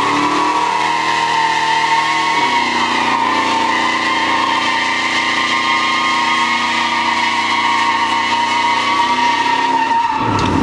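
Supercharged 5.4-litre V8 of a 2004 Ford Lightning pickup held at high revs through a burnout, its rear tires squealing steadily. The engine note drops off near the end.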